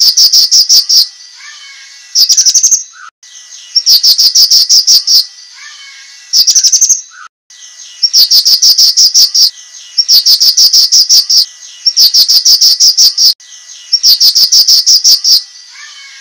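Cucak kinoi singing its sharp masteran song: loud bursts of very rapid, evenly repeated high notes, each about a second long, repeated again and again, with short lower whistled notes between the bursts.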